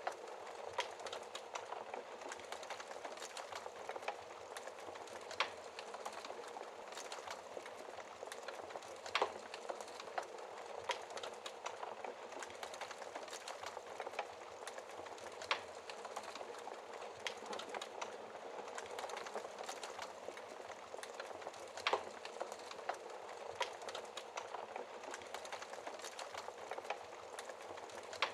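Wood fire crackling in a fireplace: a steady hiss full of small crackles, with a few louder sharp pops now and then.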